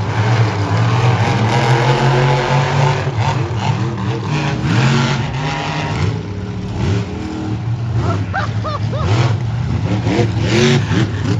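Monster truck engine running loudly, its pitch rising and falling as it is revved.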